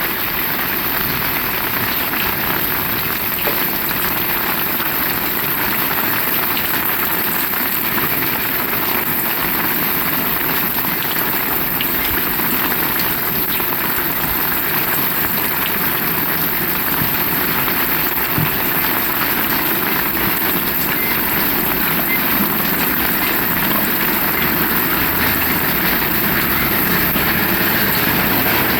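Heavy rain falling steadily, a dense, even hiss of rain on surfaces, with a low rumble building slightly toward the end.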